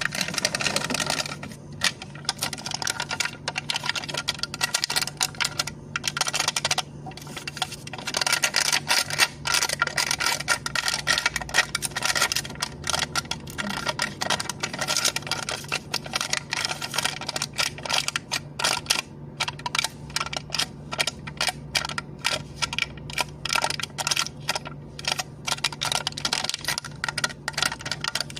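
Cup lid being tapped and clicked in a rapid, uneven stream of light clicks, several a second with brief pauses, over a faint steady low hum.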